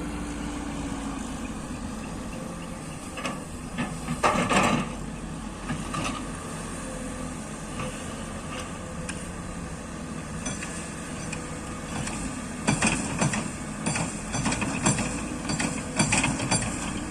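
Excavator's diesel engine running steadily, with a cluster of metal clanks about four seconds in and a run of rapid clattering knocks in the last five seconds.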